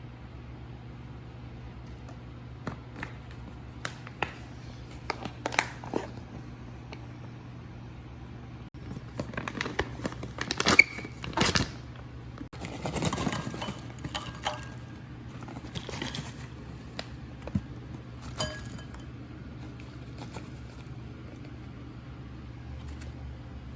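Snack bag crinkling and rustling as it is handled, with scattered sharp clicks and two denser stretches of crackling about ten and thirteen seconds in, over a steady low hum.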